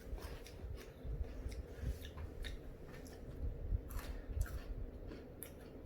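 Chewing and crunching of Pretz baked biscuit sticks: faint, irregular crunches.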